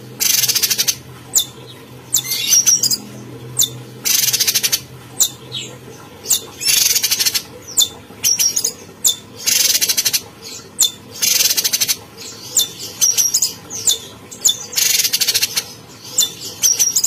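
Cucak cungkok songbird singing vigorously: harsh rasping bursts about half a second long, every second or two, alternating with short sharp high chirps.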